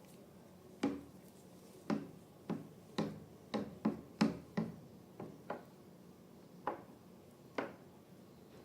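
About a dozen short, sharp pops or clicks, unevenly spaced and bunched in the middle: slime being pressed and handled.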